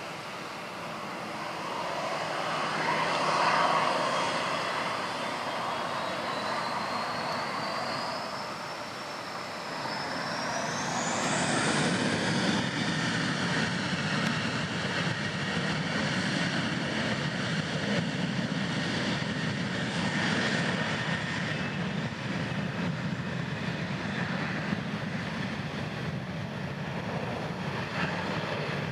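Boeing 737-700's CFM56-7B jet engines spooling up to takeoff power: a whine climbs steadily in pitch over about ten seconds, then the engines run steadily at high thrust through the takeoff roll.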